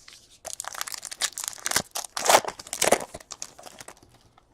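Trading card pack wrapper crinkling and tearing as it is handled and ripped open, with a dense run of crackles that fades out about four seconds in.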